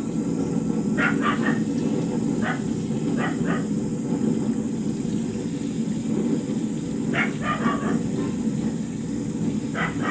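Short animal calls in clusters of two or three, repeating every few seconds over a steady low rumble.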